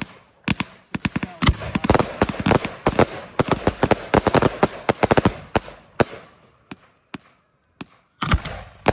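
Fireworks going off in a rapid barrage of sharp bangs and crackles, thinning out and stopping for about a second some seven seconds in, then starting again near the end.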